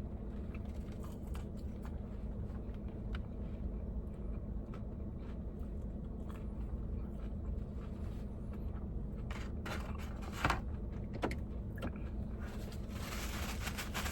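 A person eating fried chicken fingers: scattered small crunches and mouth clicks over a steady low hum, with a couple of louder crackles about ten and eleven seconds in and a rustling hiss near the end.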